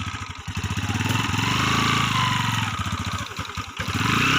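Motorcycle engine running, its speed rising and falling, with two brief dips where the throttle eases off.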